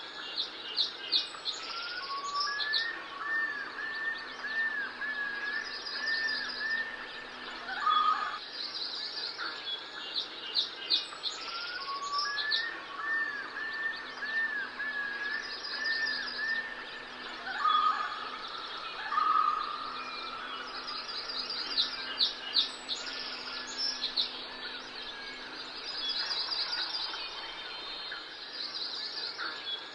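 Birds chirping and singing: short, quick series of high chirps come again every couple of seconds, with longer whistled phrases lower in pitch twice during the stretch.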